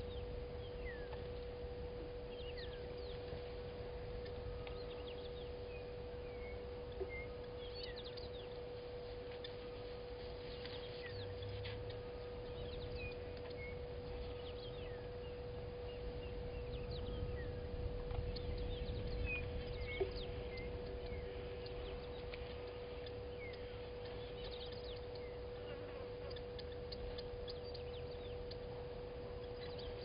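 Birds calling at a waterhole: scattered short chirps and whistles throughout, over a steady hum and a faint low rumble.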